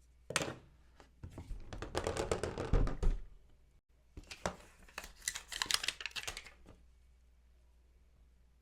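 Two bursts of rapid clicking and clattering, each about two seconds long, from small hard pieces being handled, then quiet.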